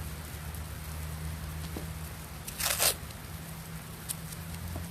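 A strip of adhesive tape pulled off the roll once, a short tearing sound about two and a half seconds in, with a few faint ticks of handling around it.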